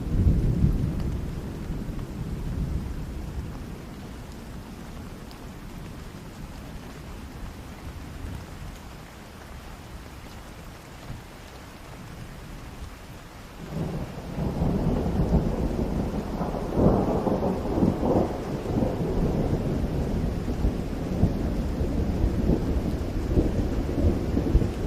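Rain falling in a forest during a thunderstorm. A rumble of thunder at the start dies away over a few seconds. About halfway through, a second, louder peal breaks in with crackling and rolls on to the end.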